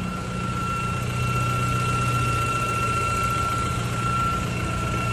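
BMW 320 turbo engine idling with a steady high whistle over its hum. The owner finds the cause to be a torn diaphragm membrane, a fault common in this car.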